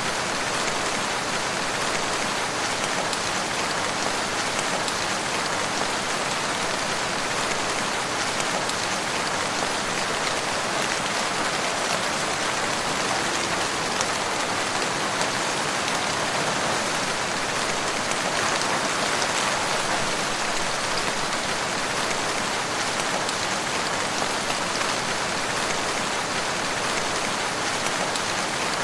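Steady, even rain falling on a surface, with no breaks or build-ups.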